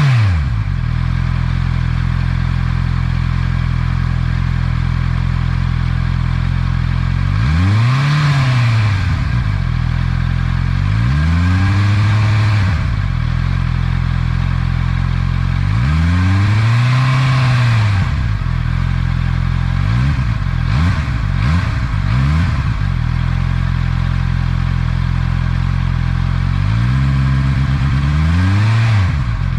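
Honda CB650R's inline-four idling through its stock exhaust and being revved in place several times. Each rev rises and falls back to idle, with a quick run of short blips a little past two thirds of the way through.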